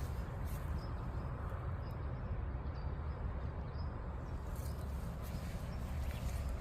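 Steady outdoor ambience: a low rumble and hiss with a few faint, short high chirps.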